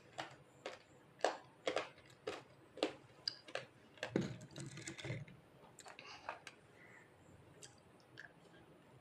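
Teeth crunching dry baked clay: a quick run of crisp cracks, then a heavier chewing crunch about four seconds in, then a few faint crunches.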